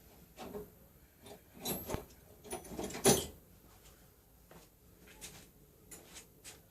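Irregular clicks and clunks of something being handled, with the loudest, sharp knock about three seconds in.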